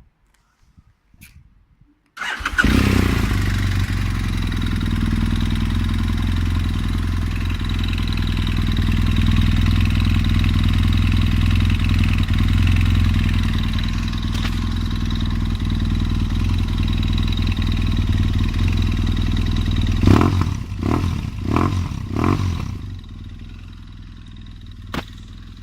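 BMW F800S parallel-twin motorcycle engine with an aftermarket LeoVince exhaust starting about two seconds in and idling steadily. Near the end it is blipped with a few short revs, then drops back to a quieter idle.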